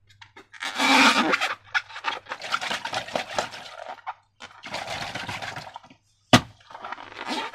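Slime being handled and squished with rubber balloons: bursts of sticky, squelching and rubbing noise with short pauses between them, and one sharp click about six seconds in.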